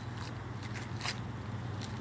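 Steady low hum of a 1990 Chevrolet 454 SS pickup's 7.4-litre big-block V8 running, heard inside the cab, with a few scattered light clicks and taps.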